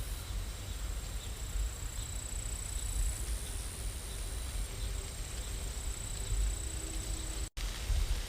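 Steady rain ambience: an even hiss over a low rumble, cutting out for an instant near the end.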